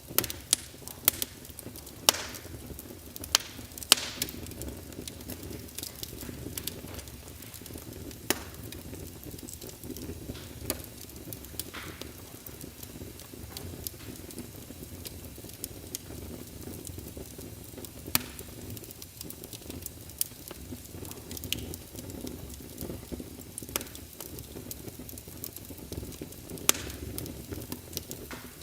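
Wood fire burning in a fireplace: a steady low rumble of flames with scattered sharp crackles and pops from the logs, several loud pops in the first few seconds.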